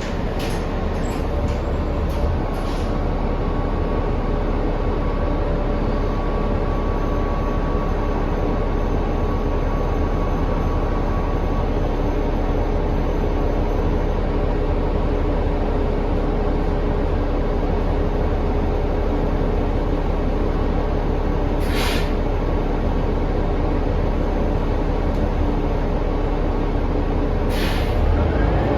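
Inside a 2019 New Flyer XD40 diesel bus under way: a steady heavy engine and drivetrain rumble with several steady whining tones layered over it, the sound the rider calls insane. Two brief sharp noises come near the end.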